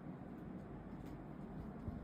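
Several robot vacuum cleaners running at once: a steady low whir with a few faint clicks.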